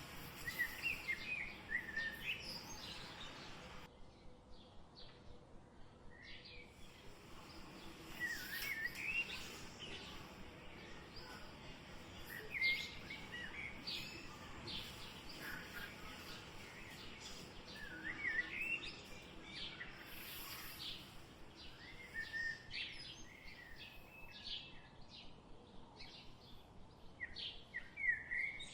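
Birds singing: short chirping phrases repeated every few seconds over faint steady background noise.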